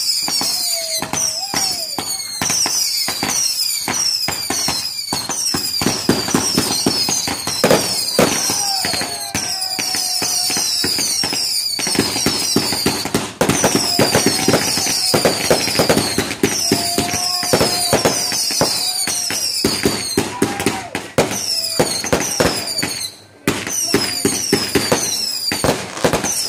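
Fireworks going off in a rapid barrage: dense crackling and popping, with many high-pitched falling whistles repeating over it. It pauses briefly a few times before starting up again.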